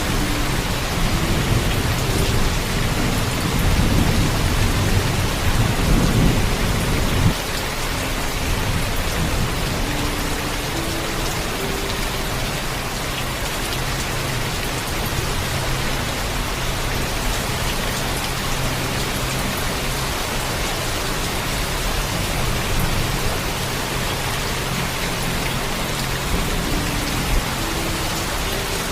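Heavy rain falling steadily, with a low thunder rumble over the first seven seconds that cuts off suddenly.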